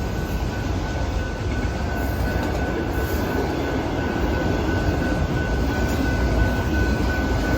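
Canadian Pacific manifest freight train rolling past at a grade crossing: a steady rumble of wheels on rail, with a thin steady high tone running through it.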